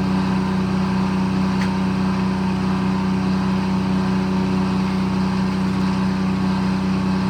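Detroit diesel engine powering a circle sawmill, running steadily at constant speed.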